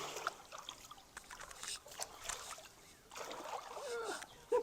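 Creek water trickling and splashing with irregular sloshes as people wade and work debris, and a voice murmuring in the last second or so.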